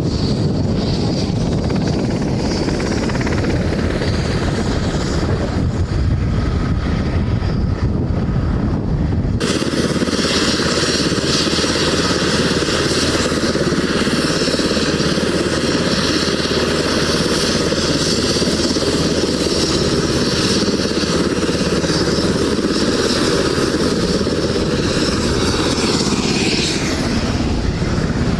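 Loud, steady engine noise with an abrupt change about nine seconds in; near the end its pitch falls as it slows or passes.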